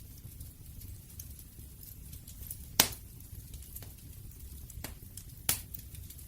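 Campfire burning with wood crackling: many small ticks over a low steady rush, with a sharp pop about halfway through and two more near the end.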